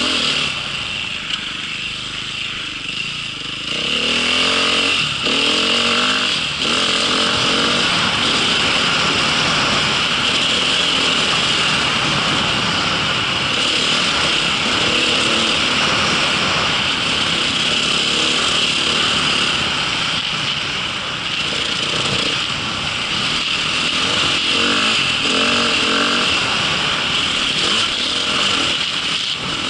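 Engine of an off-road vehicle running and revving up and down as it rides, quieter for the first few seconds and then pulling harder.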